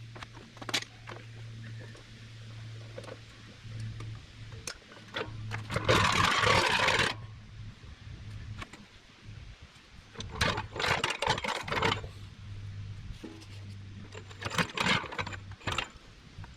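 Hand-tool and metal-handling noise while bolting up a steel skid plate: scattered knocks, a noisy scrape of about a second near the middle and two runs of rapid clicking later on, over a steady low hum.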